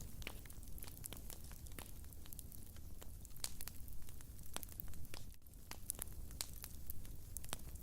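Wood fire crackling: irregular pops and snaps over a low, steady rumble.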